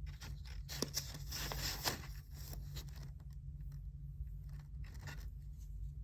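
Pen and paper sounds at a study desk: a dense run of scratching and rustling strokes in the first two seconds, then a few fainter strokes, over a steady low hum.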